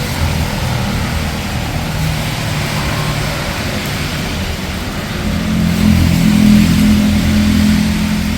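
Steady rain with a car engine's low hum underneath, the engine growing louder about five seconds in.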